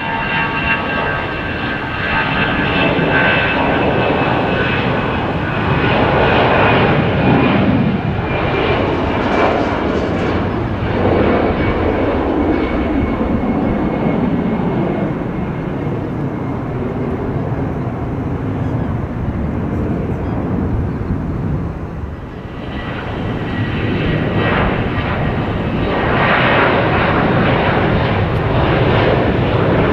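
Airliner engines running as a plane passes, with a slowly falling whine over the first half; the engine noise swells again about two-thirds of the way through.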